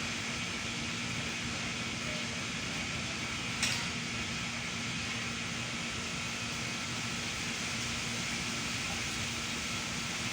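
Steady machine hiss with a faint low hum, like a running fan, and one short click a little over three and a half seconds in.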